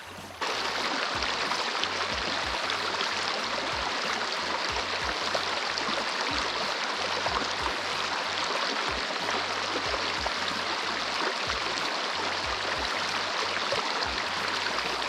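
Steady, even hiss of rushing water, with irregular low rumbles underneath. It starts abruptly about half a second in.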